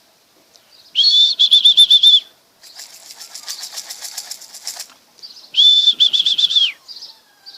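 Pigeon wings flapping in a quick fluttering rhythm. Two loud warbling high-pitched whistles, each about a second long, come about a second in and again near the middle.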